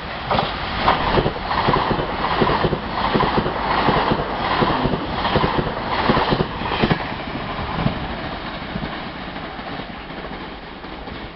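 Train passing through a station at speed, its wheels clacking rapidly over the rail joints. The clatter fades over the last few seconds as the train moves away.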